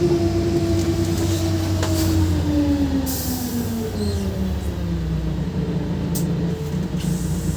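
LiAZ 5292.67 CNG city bus heard from inside the cabin, its engine and drivetrain note falling steadily as the bus slows, with a short hiss about three seconds in and another brief one near six seconds.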